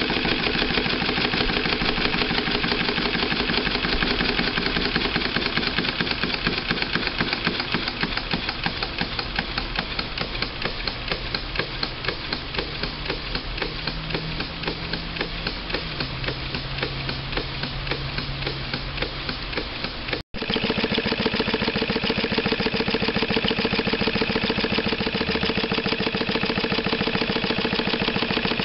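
Model overhead-crank engine running with a rapid, even clatter of knocks. The sound drops out for an instant about two-thirds of the way through and comes back slightly louder.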